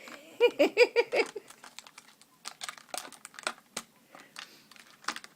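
Amazon parrot working a plastic water bottle with its beak: irregular sharp clicks, taps and crinkles of the plastic. A brief run of short pitched vocal notes comes about half a second in.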